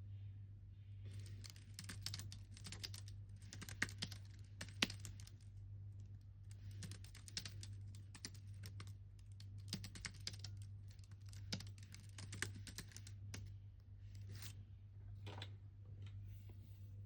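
Typing on a computer keyboard in bursts of rapid keystrokes broken by short pauses, thinning to a few single key presses near the end. A steady low hum runs underneath.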